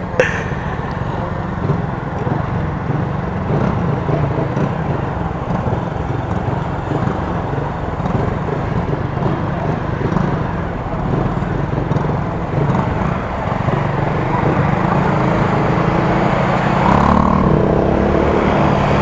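Motorcycle engine running while riding, under a steady rush of wind and road noise. Near the end the engine note rises as it speeds up.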